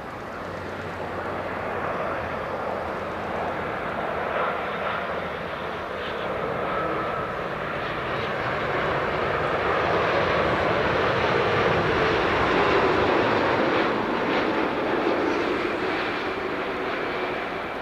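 Japan Airlines Boeing 787-9 Dreamliner jet engines passing by. The rushing jet noise builds to a peak about two-thirds of the way in, then eases slightly, and a faint whine slides down in pitch as the plane goes by.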